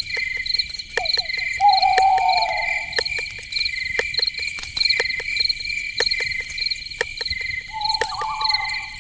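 Night-time insect chorus of crickets, with steady pulsing trills and irregular sharp clicks several times a second. A wavering animal call rises over it twice, about a second in and again near the end.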